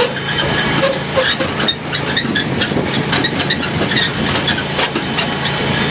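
Riding lawn mower's engine running steadily under way, with frequent short rattles and knocks over it.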